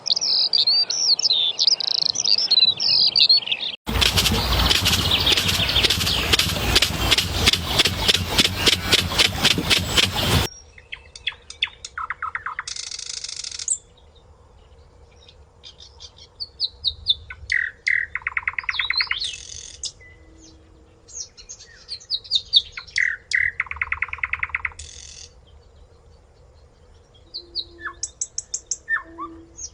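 Wild songbirds singing: a dense chorus of high warbling calls at first. From about four seconds in, a loud harsh rasping sound with a rapid, even pulse runs for about seven seconds and stops abruptly. After that come scattered chirps and short twittering trills with quiet pauses between them.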